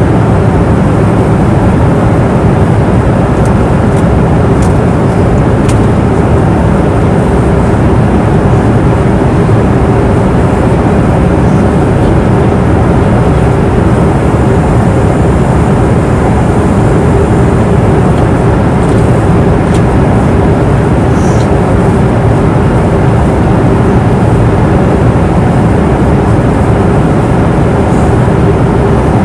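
Airplane cabin noise in flight: a steady, deep rush of engine and airflow noise with a faint steady hum, unchanging throughout.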